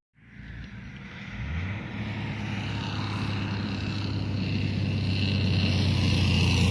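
Heavy truck engine with a low steady drone that comes in about a second and a half in and grows gradually louder as the truck approaches along the road.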